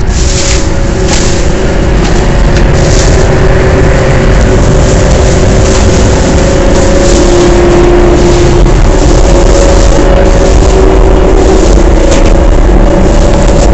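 High-speed train running at speed, heard from inside the train: a loud, steady rumble and rush with a faint wavering hum.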